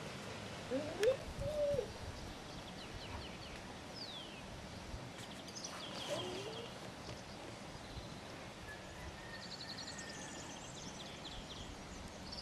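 Small birds chirping and twittering on and off in the background, quietly. A short, louder rising call about a second in, and a weaker one about six seconds in, stand out from it.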